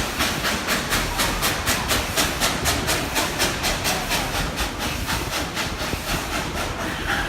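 Steam locomotive No. 190 working under way, its exhaust chuffing in a steady rhythm of about five beats a second with a hissing edge.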